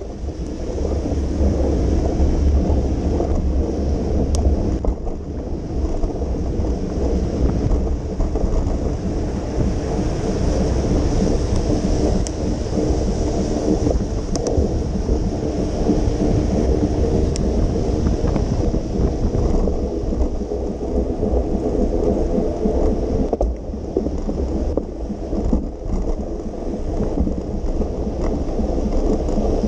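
Wind rumbling on the microphone of a moving bicycle, with a steady hiss of tyres on wet pavement in the rain. The rumble is heaviest for the first five seconds or so.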